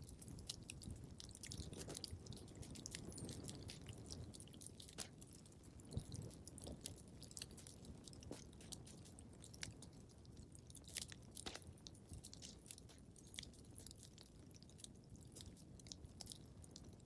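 Wood fire crackling in a fireplace: faint, irregular pops and snaps over a low rumble of burning logs, with a couple of sharper snaps about eleven seconds in.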